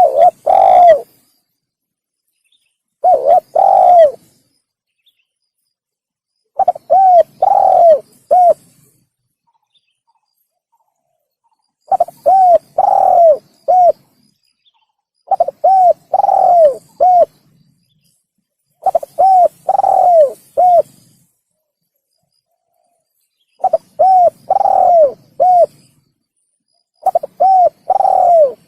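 Spotted dove (tekukur) cooing: eight short phrases of three to five coos each, repeated every three to five seconds, as used for a bird-lure call.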